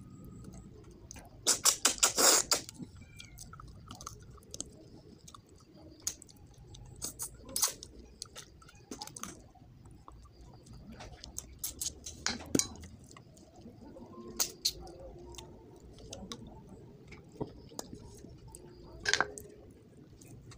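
Close-up mouth sounds of a man eating fish head and rice with his fingers: chewing, wet smacks and sharp clicks at irregular moments, with a loud quick run of clicks about two seconds in.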